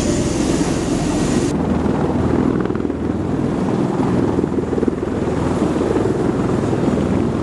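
MV-22B Osprey tiltrotor's proprotors and engines in flight, a steady low rotor throb made of rapid pulses. The upper hiss drops away abruptly about a second and a half in.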